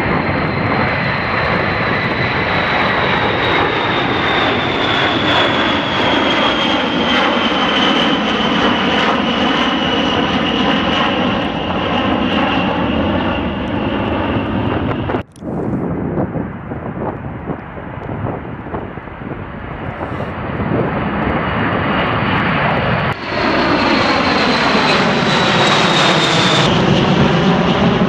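Jet aircraft engines running loud, with a high whine that slowly falls in pitch as the aircraft passes. The sound cuts abruptly about halfway through, dips for several seconds, then jumps back up with the falling whine again near the end.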